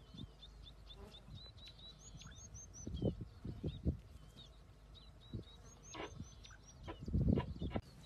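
Small birds chirping: runs of short high notes repeated several times a second, with a higher, faster run about two seconds in and again near six seconds. Low thumps and rumbles break in around three seconds in and again near the end.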